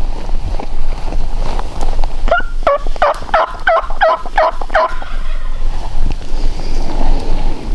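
A turkey yelping: a run of about eight evenly spaced yelps, each sliding down in pitch, starting about two seconds in and lasting about two and a half seconds. Low wind rumble runs underneath.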